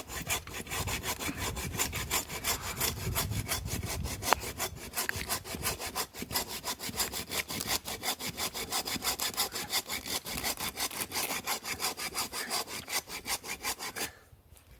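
Hand saw cutting through the trunk of a standing dead tree in rapid, even back-and-forth strokes, several a second, stopping shortly before the end.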